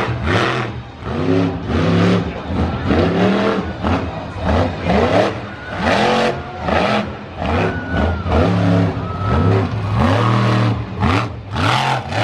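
Monster truck engine revving in repeated bursts, about one a second, its pitch climbing and dropping with each blip of the throttle.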